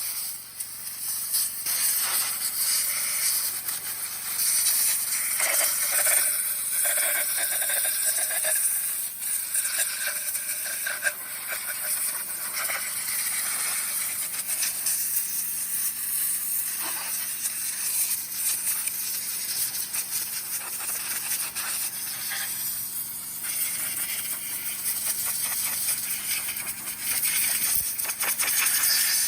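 Volkswagen Passat B7 2.5 inline-five engine running steadily, with a fast, even ticking rattle over a hiss.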